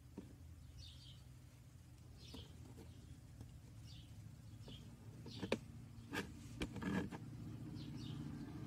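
A bird chirping, short high chirps about once a second, over a low steady hum. A few sharp clicks come in a cluster about five and a half to seven seconds in, louder than the chirps.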